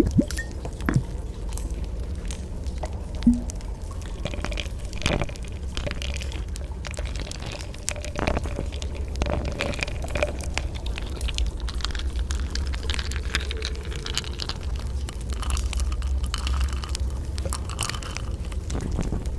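Rain ambience: a steady low rumble with scattered drips and patters.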